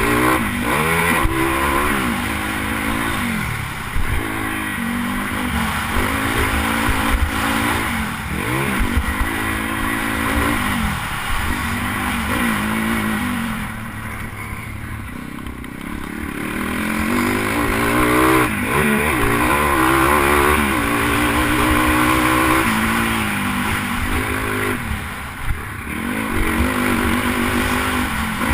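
Single-cylinder pit bike engine revved hard, repeatedly rising in pitch and dropping back as the rider works the throttle and gears, easing off briefly about halfway through before pulling hard again. Wind rush on the microphone runs under it.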